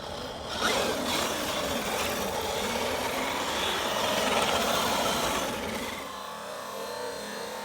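Traxxas X-Maxx RC truck driving under a Hobbywing 1100kv 5687 brushless motor. The motor whine rises and falls in pitch over tyre noise, and the sound fades away about six seconds in.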